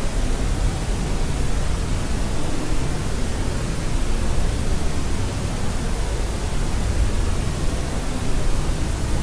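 Steady white noise for sleep: an even, unbroken hiss with more weight in the low end.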